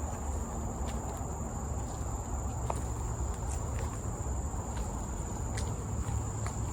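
An insect chorus holding one steady high-pitched tone, with scattered irregular crackles of footsteps on forest litter and a low rumble on the microphone.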